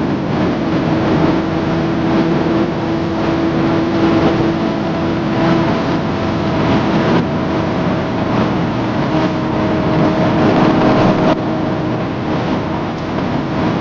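Kawasaki ZX-10R superbike's inline-four engine running steadily under way, with wind rush over the bike. The engine note holds fairly even and shifts a few times, with an abrupt change about eleven seconds in.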